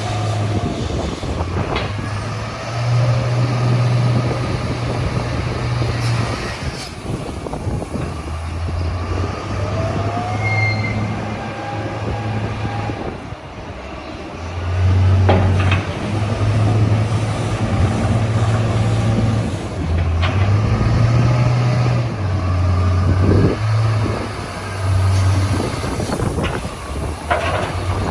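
Strong, gusty wind blowing across the microphone, a low rumble that swells and drops with each gust.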